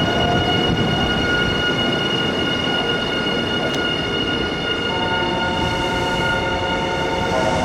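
Nankai electric train running at a station platform: a steady rumble of wheels and running gear with a high, steady whine over it. A second, lower set of steady tones joins about five seconds in.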